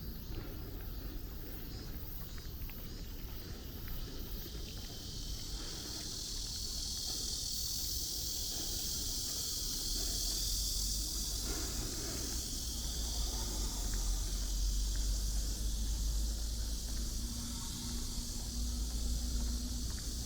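Insects buzzing in a steady high chorus that swells several seconds in and then eases, over a low constant rumble of city traffic.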